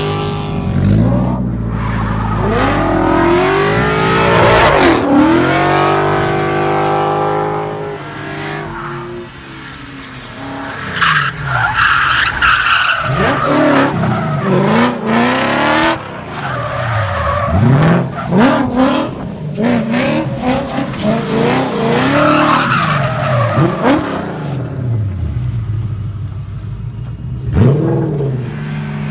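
Drift cars sliding on wet pavement, their engines revving hard and falling back again and again, with tyres skidding.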